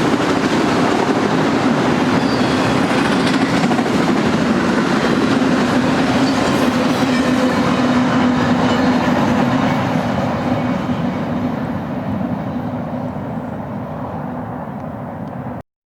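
Freight train cars rolling past, with a steady rumble of steel wheels on rail and a constant hum. The sound fades from about ten seconds in and cuts off suddenly near the end.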